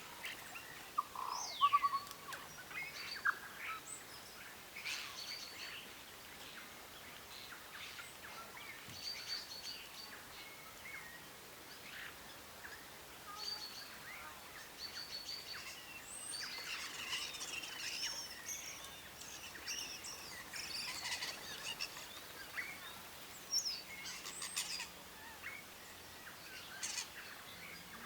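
Several birds calling and singing, with many short overlapping chirps and whistles that are busiest in the middle stretch, over a faint steady background hiss.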